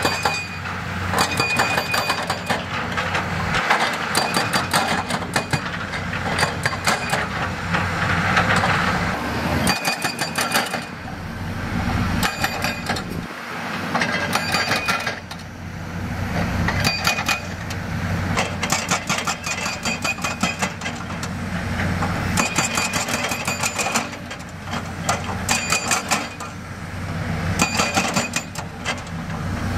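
Heavy diesel construction machinery running steadily, with repeated clusters of sharp metal clanks and rattling every few seconds, some ringing briefly.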